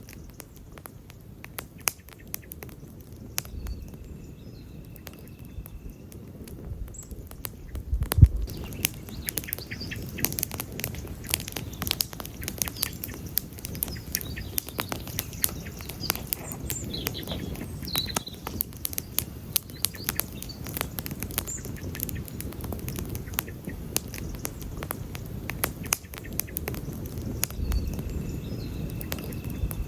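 Campfire of burning wood crackling and popping with irregular sharp snaps over a low rumble of flames; the crackling grows denser after one loud pop about eight seconds in.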